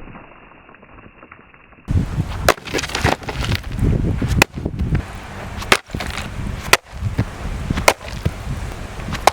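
A 16-inch Comfort Zone table fan being smashed apart: about six sharp, hard blows roughly a second apart, with cracking and breaking noise between them. The blows start about two seconds in, after a quieter, muffled stretch.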